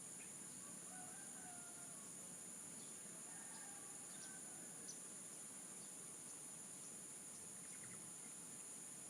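Faint morning ambience: a steady high insect trill throughout, with a distant rooster crowing in the first few seconds and a few short bird chirps.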